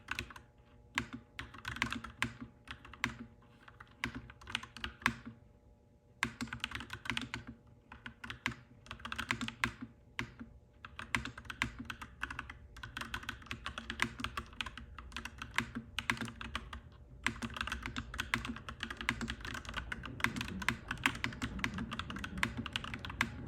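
Rapid clacky typing on a mechanical keyboard, key after key, with brief pauses about a quarter of the way in and again past the middle, over a steady low background hum.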